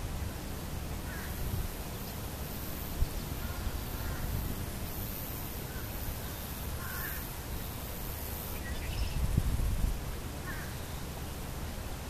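Scattered short bird calls, faint and spaced a second or more apart, about seven of them, over a constant low rumble.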